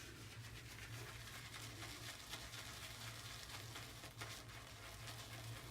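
Shaving brush being swirled over a tub of firm shaving soap to load it, a faint, fine scratchy crackle.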